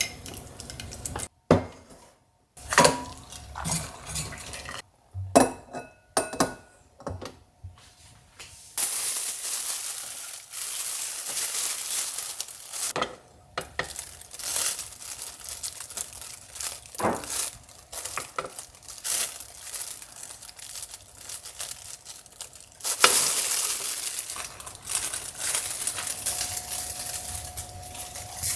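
Kitchen cooking sounds: utensils clinking and knocking against pots and dishes, with long stretches of steady sizzling hiss.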